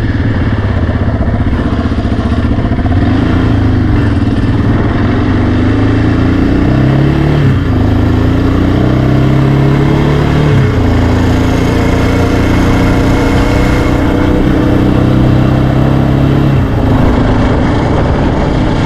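Yamaha Raptor 700R ATV's single-cylinder engine running under way, revving up and holding steady in stretches, with the pitch dropping off about two-thirds of the way in and again near the end.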